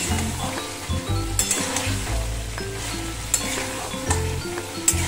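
Potatoes, bottle gourd and mustard stems sizzling in spiced oil in a wok as they are stirred with a spatula, with a few sharp clicks of the spatula against the pan. Background music with bass notes plays underneath.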